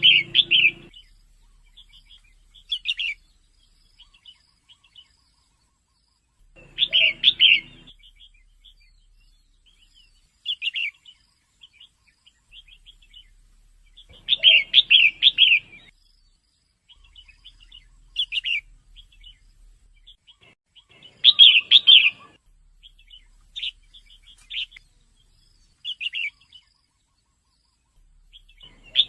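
Female red-whiskered bulbul calling: short bursts of quick chirps, each about a second long, repeated every few seconds, with softer single chirps in between.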